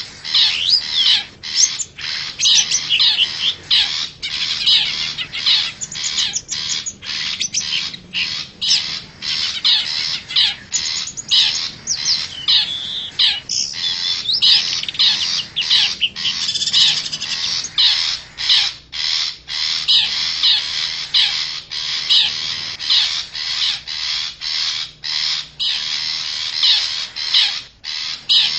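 Long-tailed shrike (cendet) giving a continuous stream of harsh, rapid chattering calls with brief pauses, as played from a bird-lure recording.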